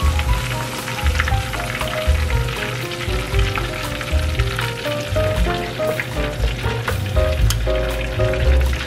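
Pork chops frying in hot oil, a steady sizzle full of small crackles, under background music with a stepping melody and a bass line.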